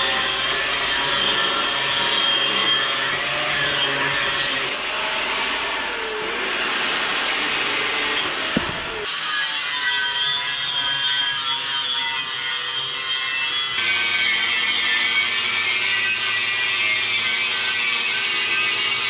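Power tool cutting quarter-inch steel diamond plate: a continuous harsh grinding-cutting noise whose tone changes abruptly about nine seconds in.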